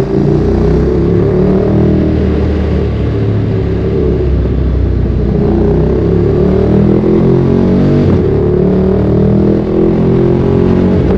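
Ducati Streetfighter 848's L-twin engine through a Termignoni exhaust while riding. Its pitch rises and falls with the throttle and gear changes, with a short break about eight seconds in.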